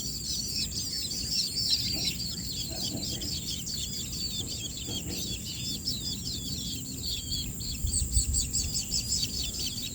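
Baby birds at the nest chirping rapidly and continuously, with many short high-pitched calls overlapping. A thin, steady high whine runs underneath.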